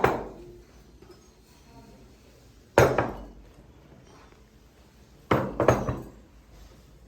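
Dishes and cutlery knocking and clinking: a sharp knock at the start, another a few seconds in, then two close together near the end, each ringing briefly.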